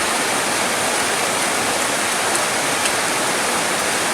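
Steady, dense rainfall: an even hiss of many drops with no change in level.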